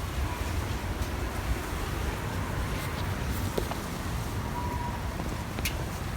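Strong gusty wind blowing and buffeting the microphone, a steady rushing noise with heavy low rumble, with a few faint clicks or rattles.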